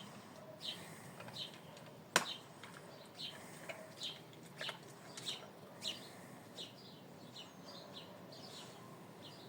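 A bird chirping, short high calls repeating about twice a second, with a single sharp click about two seconds in.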